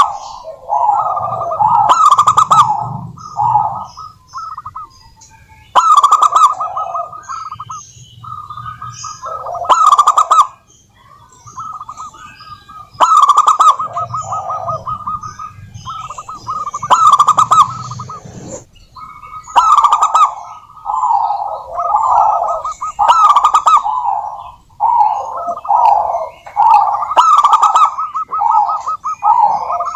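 Zebra doves (perkutut) cooing: rippling phrases of quick staccato coos, one after another with only brief gaps.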